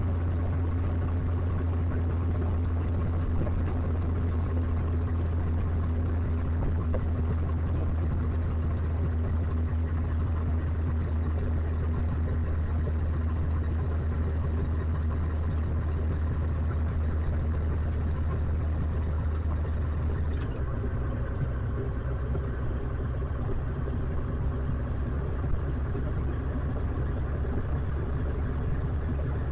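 Motorcycle engine running steadily under way. Its note changes abruptly about two-thirds of the way through, then carries on steadily.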